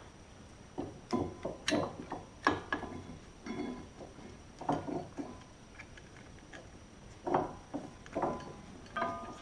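Irregular metal clinks and knocks from brake parts being handled and fitted into a caliper, brake pads and a retaining pin. A few of the knocks near the end ring briefly.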